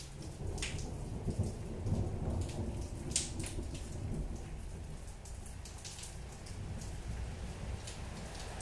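Gentle rain falling, with a low rumble of distant thunder that swells about two seconds in, and a few single sharp taps of drops.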